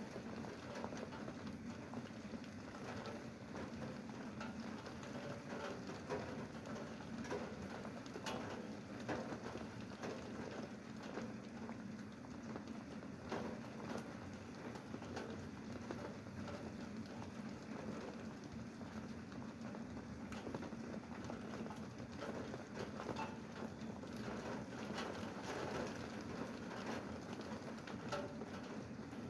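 Steady rain falling, with many separate drop hits heard as sharp irregular ticks over an even hiss.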